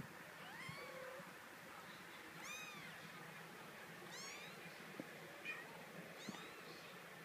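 Kitten meowing: four short, high-pitched meows, each rising and falling, about every one and a half to two seconds, with a couple of faint taps between them.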